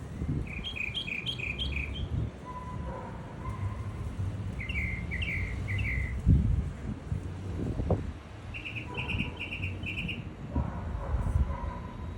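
Small birds chirping in three short bursts of five or six quick, high chirps each, over a low rumble, with a single thump about six seconds in.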